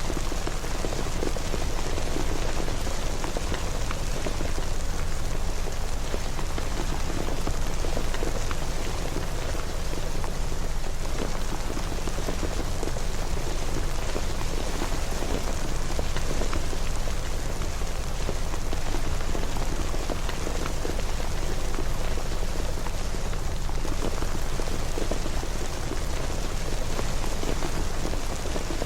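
Steady rain falling, with many fine drop patters over a low rumble, even throughout.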